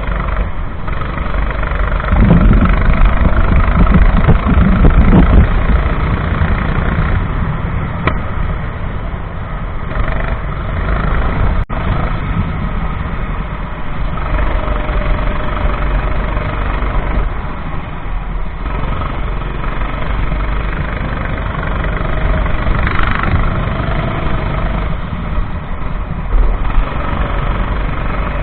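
Racing kart engine running, under a heavy low rumble.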